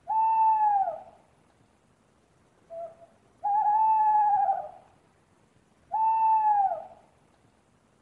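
Owl hooting: three long hoots, each held on one pitch and then dropping away at its end, with a short, quieter note just before the second hoot.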